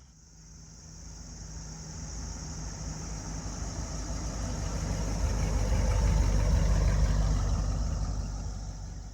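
A motor vehicle's engine rumbling as it goes by slowly, growing louder to a peak about two-thirds of the way through, then fading away.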